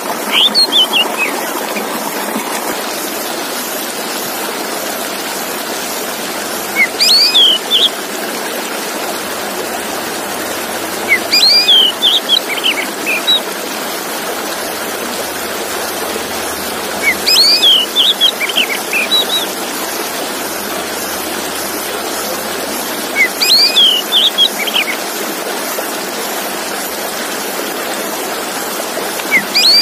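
Male Oriental magpie-robin (kacer) song: short bursts of clear, quickly rising and falling whistled notes, repeated about every five to six seconds. Behind the song runs a steady rushing water sound.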